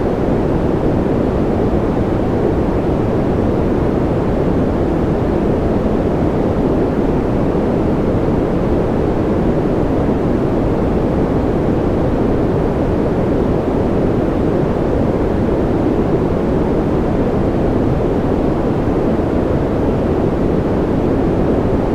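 Steady generated sleep noise, sold as white noise: an even, unbroken rushing hiss. It is strongest in the low and middle range and dull at the top, closer to a deep pink or brown noise than to a bright hiss.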